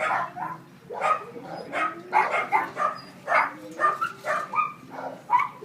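Dogs barking in a string of short, quick barks, about two or three a second.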